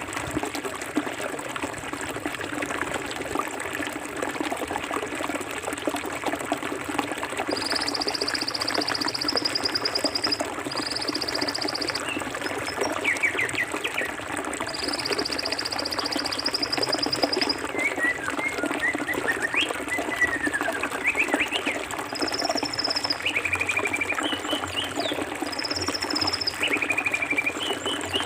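Clear forest stream flowing steadily, water babbling and trickling over rocks. Over it, three long high trills in the first half, then birds chirping and giving short whistled calls in the second half.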